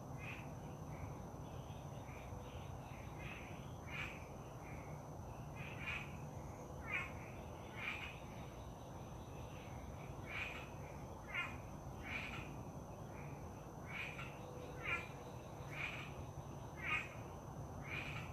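Birds calling outdoors in short, downward-sliding notes, about one a second and irregularly spaced, over a steady low background hum of wind and ambient noise, with a thin steady high tone throughout.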